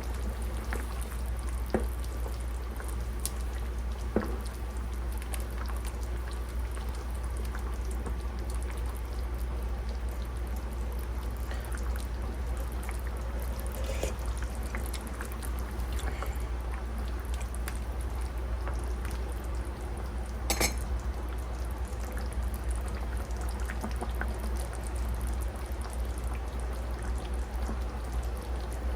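Water running steadily over a constant low hum, with a few light clicks and knocks.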